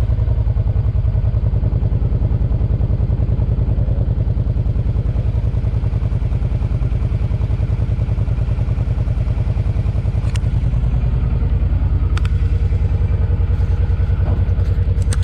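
Stock 2013 Suzuki Boulevard M50's 805 cc V-twin idling steadily through its stock exhaust, heard from behind the bike, with a slight rise in engine note about ten seconds in. A few light clicks come near the end.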